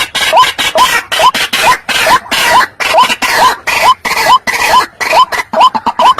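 White-breasted waterhen calling: a harsh, hooked note that rises in pitch, repeated evenly about two to three times a second. This is the bird's call as played for luring waterhens.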